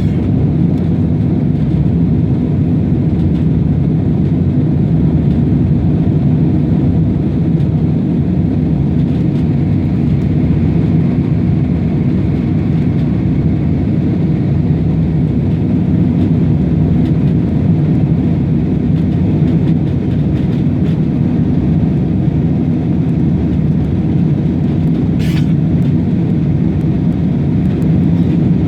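Airplane noise during take-off: a steady, loud low rumble that holds an even level, with a brief faint high hiss about 25 seconds in.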